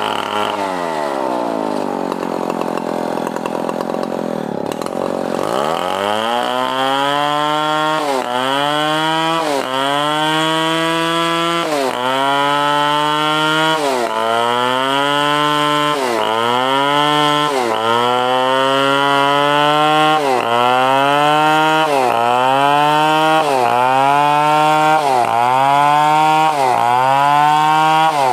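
Stihl 070 two-stroke chainsaw cutting coconut wood. The engine note sinks over the first few seconds, picks back up about five seconds in, then sags and recovers in a regular rhythm about every two seconds as the chain bites under load.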